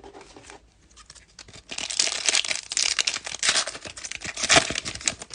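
A foil trading-card pack (2020 Topps Fire) being torn open and its wrapper crinkled. There are a few faint clicks at first, then a loud run of dense crackling from about two seconds in that stops just before the end.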